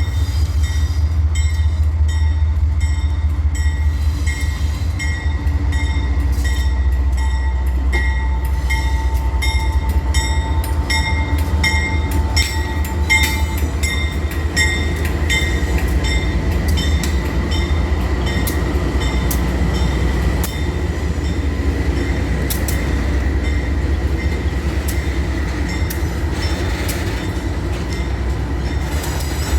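Heavy freight train passing close by: a deep rumble, strongest in the first half, with rapid clicking of wheels over the rails and a steady high-pitched wheel squeal.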